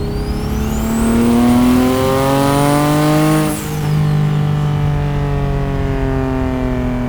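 Single-turbo Infiniti G37 sedan's 3.7-litre V6 accelerating under boost, with the turbo's whistle climbing alongside the rising revs. About three and a half seconds in the throttle closes with a short whoosh, and the whistle and engine note then wind down slowly.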